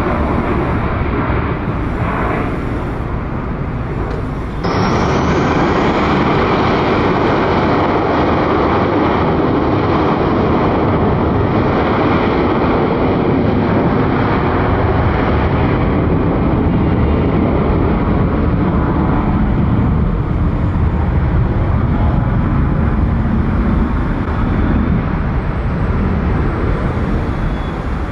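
Jet airliner engine noise, loud and steady, with a sudden step up in level about four and a half seconds in.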